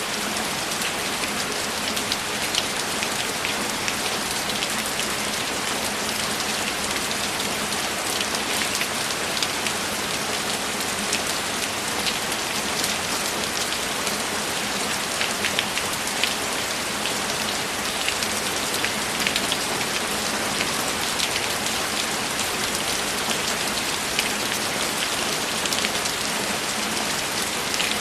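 Steady rainfall, an even hiss of rain with many close individual drops ticking through it, unchanging throughout.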